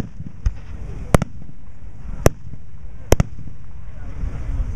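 Aerial fireworks shells bursting: sharp bangs roughly once a second, with a quick double bang about three seconds in, over a low rumble.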